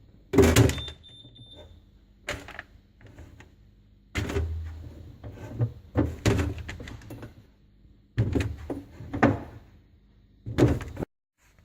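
Food containers and produce being set down on refrigerator shelves: a series of separate thuds and knocks, about seven in all, over a faint steady hum.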